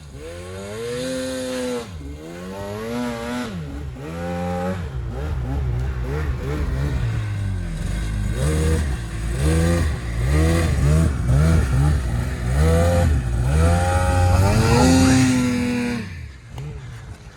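Snowmobile engine revving hard up and down, with quick repeated throttle blips in the second half, then dropping away suddenly near the end as the sled gets stuck in deep snow.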